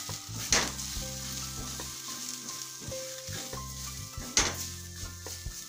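Spices, green onion and ginger-garlic paste sizzling in hot oil in a stainless steel pan while a spatula stirs them, with two sharper scrapes against the pan, about half a second in and again near the end.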